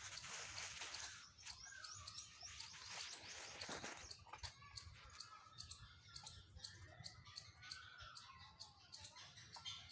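Faint chirping of small birds, with soft clicks scattered throughout.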